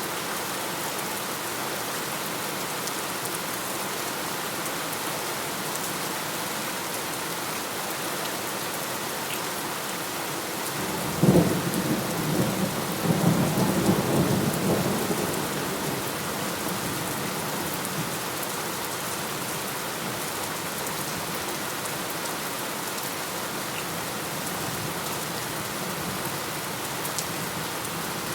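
Steady heavy rain, with a roll of thunder about a third of the way in that cracks sharply and then rumbles for several seconds before fading back into the rain.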